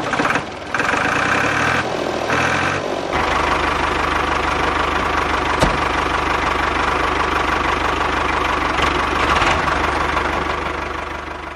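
Small motor of a DIY mini tractor running: it cuts out twice in the first few seconds, then runs steadily and fades out near the end.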